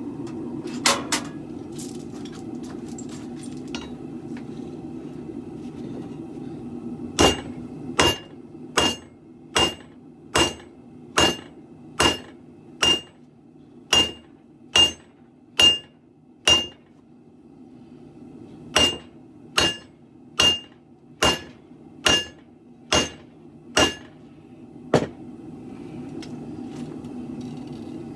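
Hand hammer striking a sword blade on an anvil: two quick blows about a second in, then a steady run of about a dozen blows just over one a second, a short pause, and about eight more. Each blow has a bright metallic ring, over a steady low hum.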